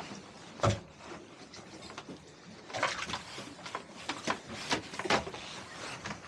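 Scattered knocks and clunks over a faint background hiss. A sharp knock about two thirds of a second in is the loudest, followed by a short scraping burst about three seconds in and a few lighter knocks after it.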